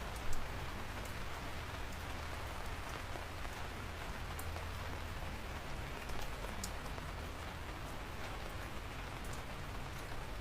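Steady rain falling, with single drops landing as sharp ticks now and then; the loudest tick comes just after the start.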